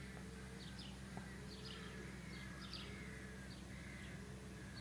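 Small birds chirping in short, high notes, about two a second, over a faint steady low hum.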